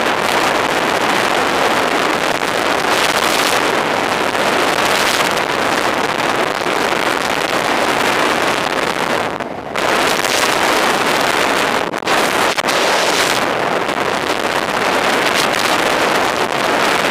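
Steady rush of wind buffeting the microphone, as from moving at speed, with no clear engine note; it drops away briefly about halfway through.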